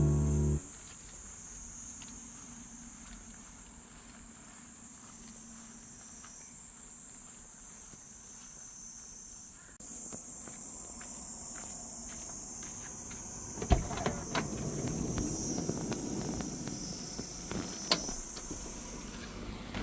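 Insects, crickets, chirping steadily in a high continuous band once the music stops within the first second. From about halfway through, a louder rushing background joins in, with a few sharp knocks and clicks.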